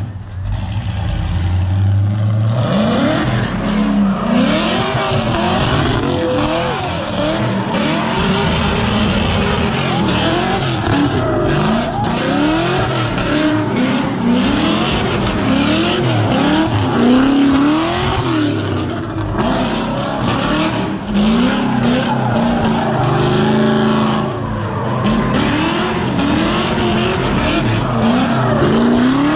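A car engine idles briefly, then revs hard over and over, its pitch rising and falling about once a second, over a steady hiss of spinning tyres. This is typical of a car doing a burnout or donuts.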